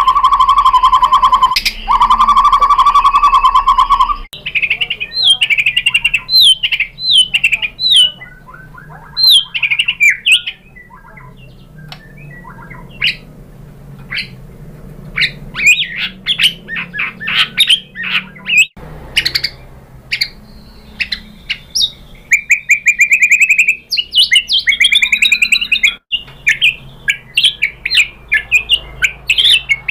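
White-rumped shama singing: a steady buzzing trill in two runs, then a quick string of sharp down-slurred whistles and short chips, with a fast run of notes near the end.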